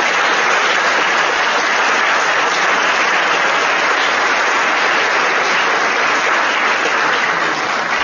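An audience in a hall applauding steadily, dying away just after the end.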